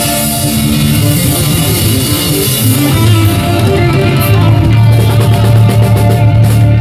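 Live rock band playing an instrumental passage with electric guitar, bass and drum kit.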